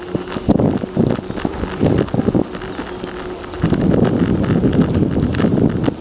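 Wind buffeting the microphone of a rider on a moving bicycle, as a rough, gusting rumble. A faint steady hum runs under it for the first three and a half seconds, and the buffeting grows louder after that.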